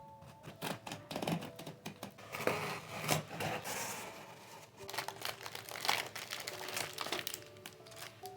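Packaging being unwrapped by hand: irregular crinkling, crackling and rustling as a parcel is opened.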